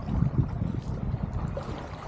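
Wind buffeting the microphone aboard a small sailing keelboat under way, a gusty low rumble strongest in the first second, with water noise along the hull.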